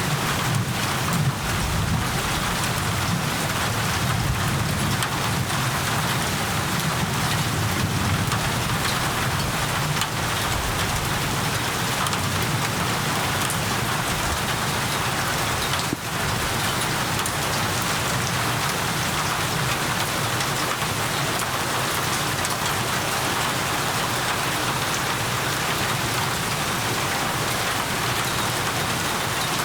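Steady heavy rain falling, an even hiss of many drops. A low rumble of distant thunder sits under it for the first ten seconds or so, then fades.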